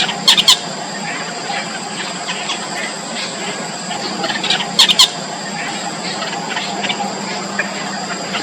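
Yellow bittern nestlings calling in the nest: many faint, short squealing calls, with two louder bursts of sharp calls, one just after the start and one about five seconds in.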